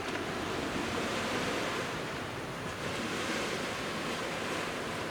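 Waves washing onto the shore of the Genkai Sea, a steady surf hiss that swells in the middle and eases near the end.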